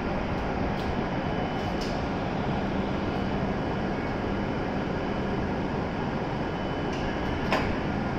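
Steady hum and rushing noise from a stopped W7 series Shinkansen standing at the platform, with a few faint clicks, the loudest about seven and a half seconds in.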